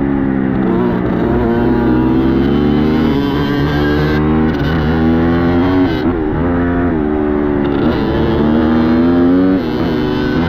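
Dirt bike engine under riding, revving up and dropping back several times as the rider works the throttle and shifts.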